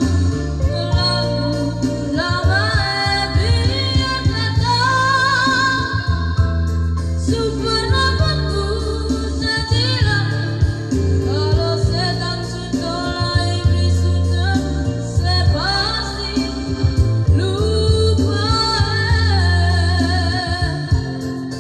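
A solo voice singing a song over instrumental accompaniment with a strong bass line, holding notes with vibrato.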